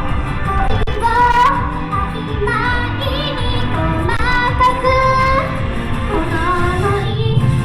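Female vocalist singing a J-pop song over its amplified accompaniment, with strong wind rumbling on the microphone.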